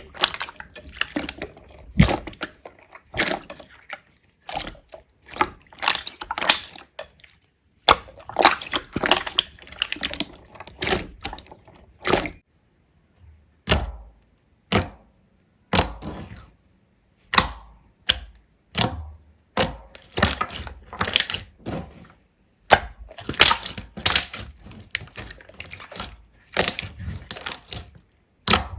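Slime being handled by hand: runs of sharp crackles, clicks and sticky pops in quick clusters, broken by a few short pauses.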